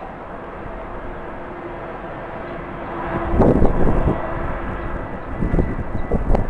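Jet airliner engines running steadily at a distance, a faint steady whine under a broad rush. About three seconds in, and again near the end, loud irregular gusts of strong wind buffet the microphone.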